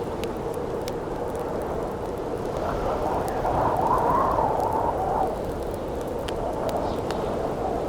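Campfire crackling with scattered sharp pops over a steady rush of wind. A gust swells and howls about three seconds in, then eases off after about five seconds.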